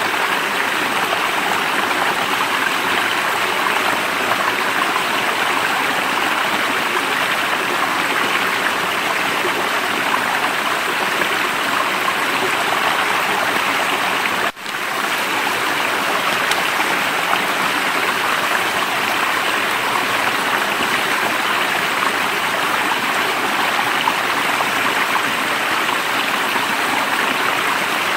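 Steady rushing of a flowing stream, with a sudden brief dip in the sound about halfway through.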